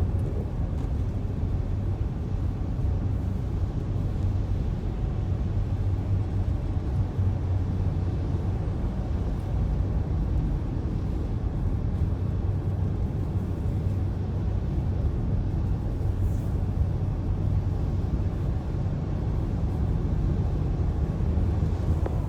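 A steady low rumble that holds unchanged throughout, with no separate knocks or changes in pitch.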